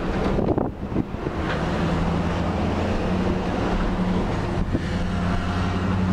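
Engine running with a steady low hum under a rush of wind and motion noise, dipping briefly just under a second in.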